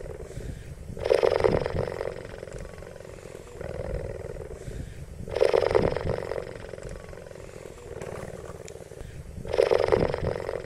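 Cheetah vocalizing with a rough, rasping sound in a regular cycle: three loud rasps of about a second each, roughly four seconds apart, with quieter rasps between them.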